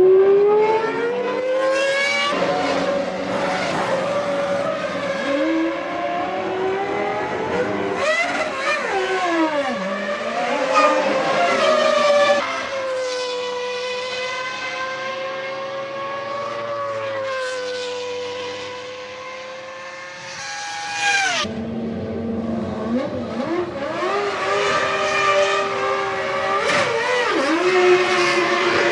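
1997 Formula One cars running at high revs on track, their engine notes rising and dropping sharply with each gear change as several cars go by. Partway through, one steady high engine note fades away, then new engine sound cuts in suddenly.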